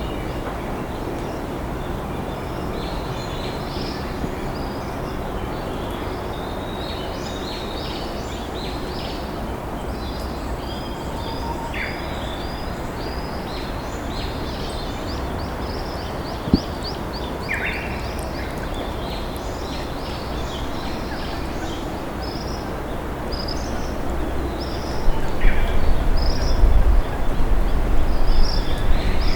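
River flowing steadily under wild birds chirping and singing, with short calls and trills repeating throughout. A single sharp click comes about sixteen seconds in, and a low rumble swells in the last few seconds.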